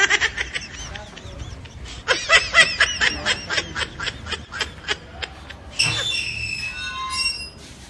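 High-pitched laughter: a quick run of ha-ha pulses, about four or five a second, for around three seconds, then a longer drawn-out laughing cry near the end.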